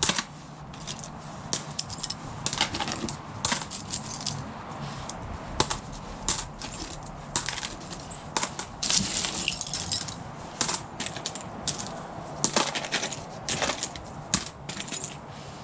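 Dug-up coins clinking against each other and against other metal junk as they are picked out of a pile and dropped, many separate irregular clinks with a busier flurry about midway.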